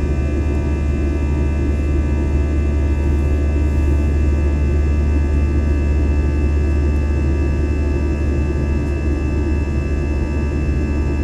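Steady cabin drone of a jet airliner in flight: a deep, even rumble with several steady whining tones above it, unchanging throughout.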